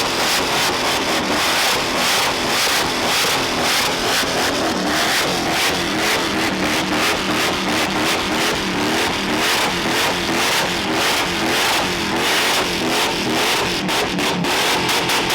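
A loud engine revving up and down repeatedly, its pitch rising and falling throughout.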